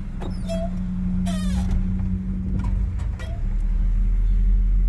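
Car engine idling, heard from inside the cabin as a steady low hum, with a few short squeaky sounds in the first two seconds. The low rumble grows louder in the second half.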